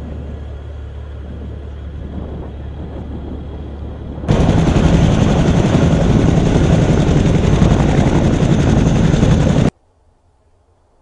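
Helicopter running, its rotor and engine at a steady pitch. About four seconds in it jumps suddenly to much louder and fuller, then cuts off abruptly near the end.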